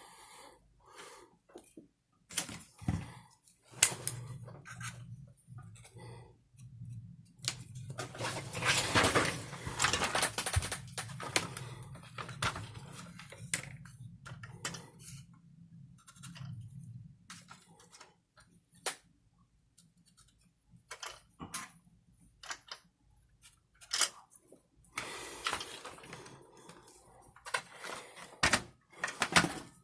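Hand work on small parts: irregular clicks, small knocks and rattles of tools and plastic pieces being handled. A low steady hum runs under it for about the first half.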